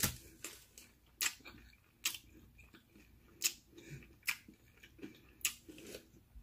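Close-up chewing of a hash brown with the mouth closed: sharp, wet mouth clicks and smacks, one every half second to second at an irregular pace.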